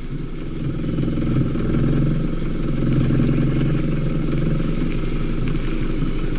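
Car engine idling steadily with a regular low pulse, growing a little louder over the first second or two.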